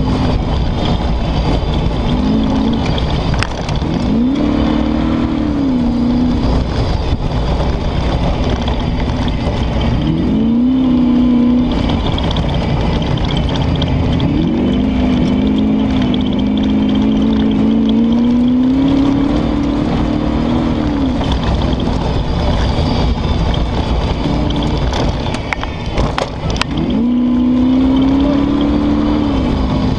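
Comp safari car's engine heard from inside the cab under hard driving, its note climbing and dropping back several times as the driver accelerates and lifts over the course. A steady din of road and body noise runs under it, with a few sharp knocks.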